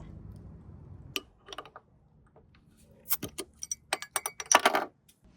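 Light clicks and small metallic clinks, one about a second in and a quick cluster in the last two seconds, as a bottle of cherry fruit ale is handled and opened.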